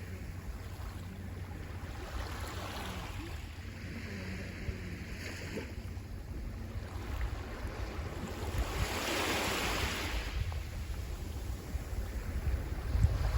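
Sea waves washing ashore in slow surges, the largest swelling about nine seconds in, over a low rumble of wind on the microphone.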